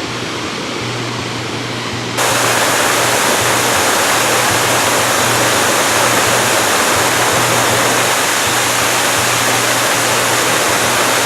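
Waterfall rushing with a steady, loud roar of falling water, which jumps louder about two seconds in.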